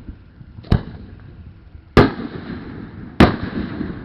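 Three aerial firework shells bursting, at about 0.7, 2 and 3.2 seconds, each a sharp bang followed by a rolling echo; the second and third bangs are the loudest.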